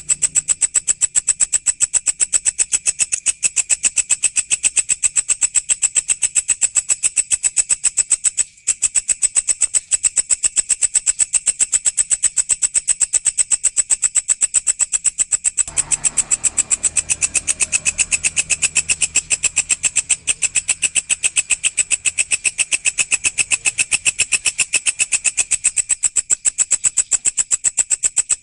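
Walang (grasshopper) stridulating: a loud, high-pitched, rapid, even pulsing chirr that goes on almost without a break, with one very short pause about a third of the way in. A faint low hum joins in past the middle.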